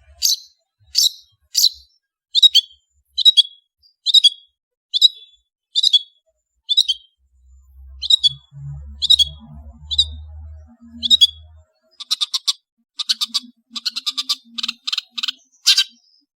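Long-tailed shrike (cendet) singing: a run of sharp, high call notes about once a second, breaking into a fast chattering series near the end.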